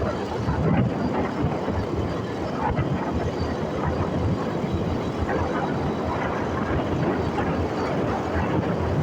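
Steady wind rush and road noise from a motorcycle being ridden, with the engine running underneath.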